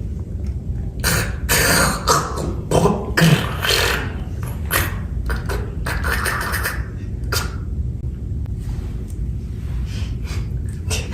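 Beatboxer making percussive mouth sound effects: a quick run of sharp clicks and bursts for several seconds, thinning out near the end, over a steady low rumble.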